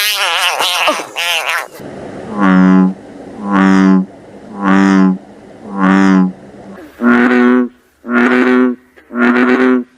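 Frogs calling: a regular series of low, droning pitched calls, about one a second and each roughly half a second long, shifting to a slightly higher-pitched call with clear gaps between calls about seven seconds in. A wavering, warbling call comes before them in the first couple of seconds.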